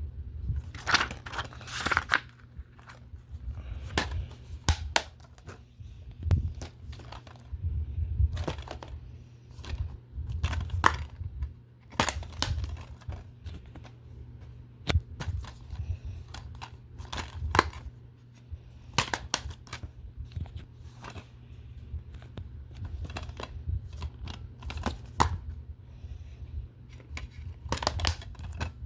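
Plastic disc cases being handled: irregular sharp clicks and knocks with some crinkling, over a steady low hum.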